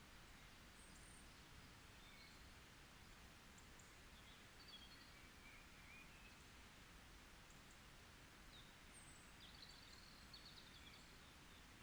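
Faint forest ambience: scattered short, high bird chirps over a steady low hiss, with a brief flurry of calls near the end.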